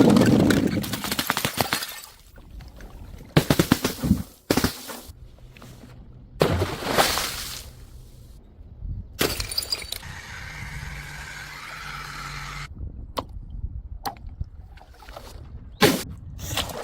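Glass bottles smashing on hard stairs, several separate breaks with glass shards clattering and tinkling. The loudest crash comes right at the start, with more smashes a few seconds apart and scattered sharp clicks of shards near the end.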